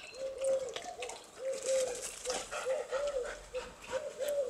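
A bird calling in a long run of short, low notes, each rising and falling in pitch, about two to three a second.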